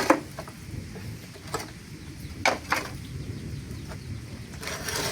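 Chickens clucking a few times in short, separate calls over a steady low background noise.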